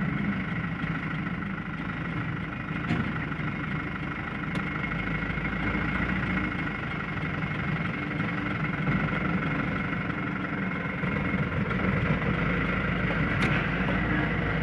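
Cargo truck's diesel engine idling steadily, with a few faint ticks.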